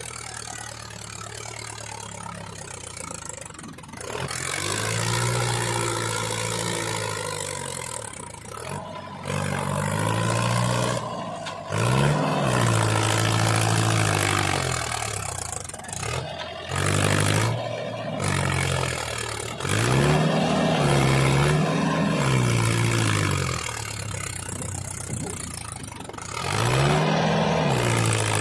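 Mini tractor engine running and revving, its pitch rising and falling in repeated surges a few seconds long, with several sudden breaks.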